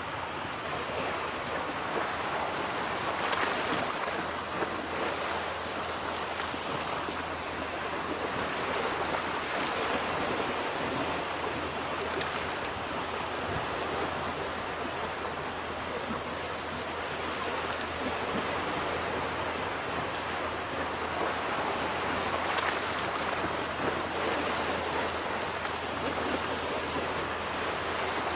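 Ocean surf washing onto a beach: a continuous rush of breaking waves that swells and eases gently.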